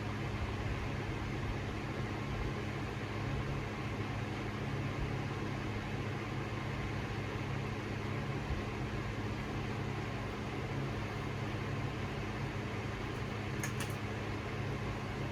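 Harbor Breeze Cheshire 52-inch ceiling fan running on high speed: a steady motor hum under the rush of moving air. A couple of short clicks come near the end.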